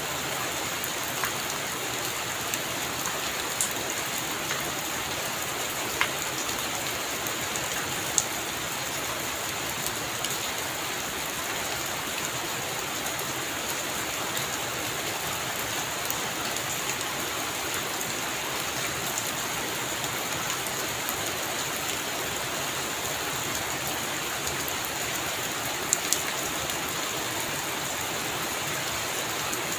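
Heavy rain falling steadily: a dense, even hiss of drops with a few louder single drops ticking sharply here and there.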